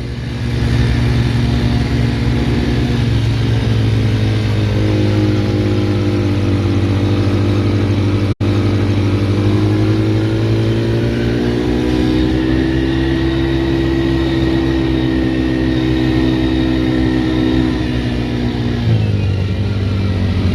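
Motorcycle engine running under way, pulling steadily, its pitch climbing gradually twice as it gains speed and falling back near the end. The sound cuts out for an instant about eight seconds in.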